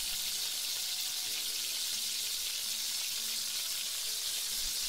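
Fried rice with vegetables sizzling steadily in hot oil in a pan as it is stir-fried.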